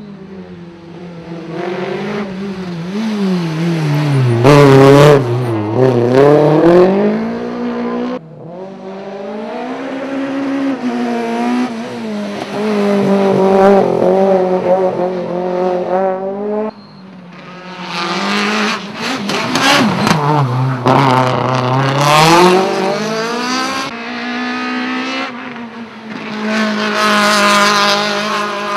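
Rally cars driven hard past on a tarmac circuit, one after another, engines revving up and dropping in pitch as they brake and accelerate through the gears. There are three separate passes, with abrupt cuts between them about eight and seventeen seconds in.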